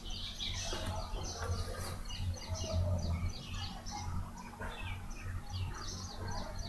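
Birds chirping in the background, many short high chirps following one another, over a low steady hum.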